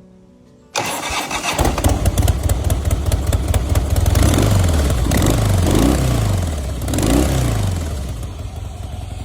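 Harley-Davidson V-twin motorcycle engine, a 2009 CVO Springer, started on the electric starter, catching within a second, then idling and revved three times, each rev rising and falling. The sound cuts off suddenly near the end.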